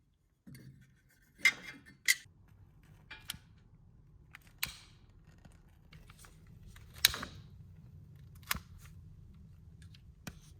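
Wood fire crackling: sharp pops and snaps every second or so over a low, steady rumble of the flames, which starts about half a second in.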